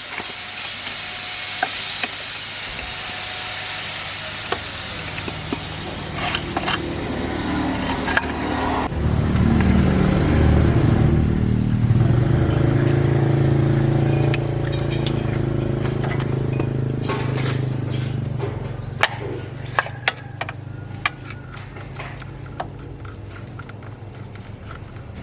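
Kubota diesel engine running steadily. It gets louder from about nine seconds in and eases back after about eighteen, with metal clinks and taps scattered over it.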